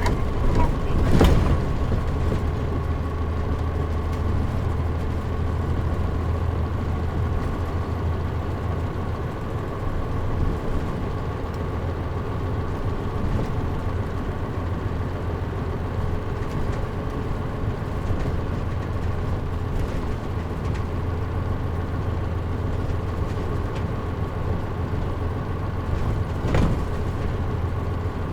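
Interior running sound of a Mitsubishi Fuso Aero Star KL-MP37JM non-step city bus with the air conditioning off: the diesel engine's steady low hum with a faint constant whine over it. A couple of sharp knocks come in the first second or so and another near the end.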